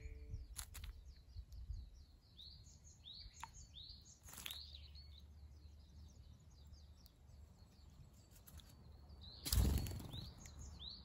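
Small birds chirping over and over in short high notes, with brief splashes and wing flutters from a female Narcissus flycatcher bathing in a shallow pool. The loudest sound is a burst of splashing and wingbeats about nine and a half seconds in, as the bird leaves the water.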